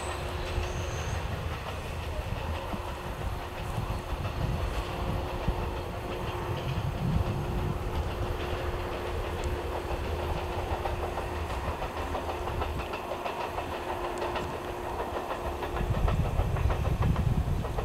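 Passenger train hauled by a DD51 diesel locomotive running along the track at a distance, a steady low rumble of engine and wheels on rails. The rumble grows louder near the end.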